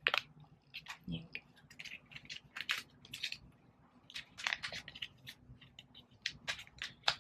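Plastic packaging being handled and opened, irregular small crinkles and clicks.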